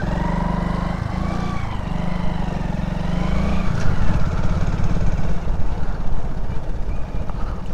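Hero Super Splendor motorcycle's 125 cc single-cylinder engine running at low speed. Its steady, wavering note changes to a rougher, pulsing beat about four seconds in.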